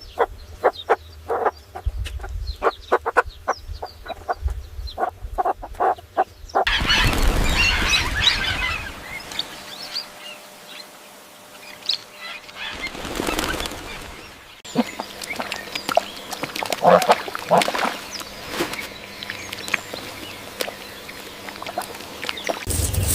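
Farm fowl calling: a quick run of short repeated calls, then, after about six and a half seconds, a busier, noisier stretch with scattered louder calls.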